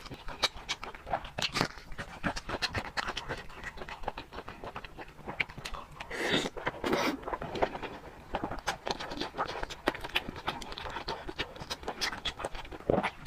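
Close-miked eating sounds: wet chewing and mouth clicks, with a longer slurp or breathy intake about six to seven seconds in.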